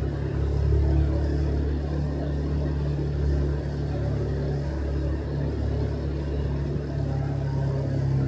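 Motorcycle engine running at a steady pace while riding, a low even drone with a little road and wind hiss over it.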